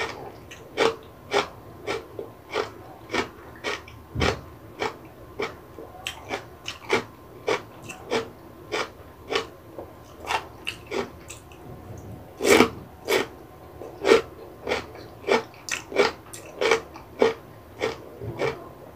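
A person chewing crisp vegetables with the mouth closed, close to the microphone: steady crunching bites about twice a second, with one louder crunch a little past the middle.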